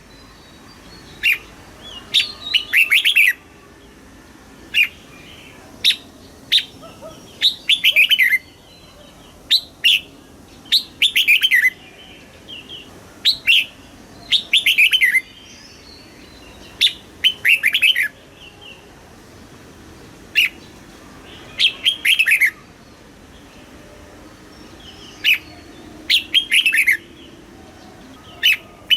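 Red-whiskered bulbul singing: short phrases of quick falling notes, repeated every second or two with brief pauses between them.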